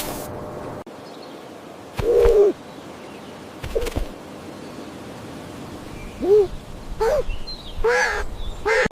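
A series of short animal calls, about six in all, each rising and falling in pitch, the loudest about two seconds in.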